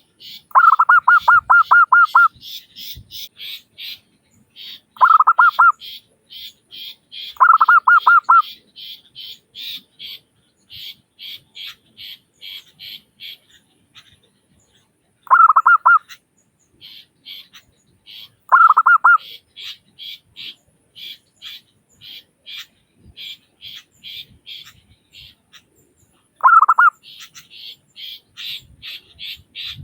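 Zebra dove (perkutut) singing its staccato cooing song, six short bursts of rapid repeated notes. A steady series of fainter, higher-pitched chirps runs at about two to three a second underneath.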